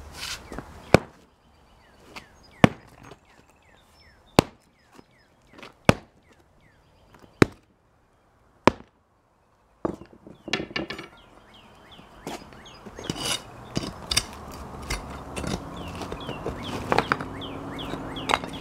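Sledgehammer striking a concrete slab six times, one blow about every second and a half. After a short gap comes a rougher stretch of irregular knocks, scraping and crunching of broken concrete.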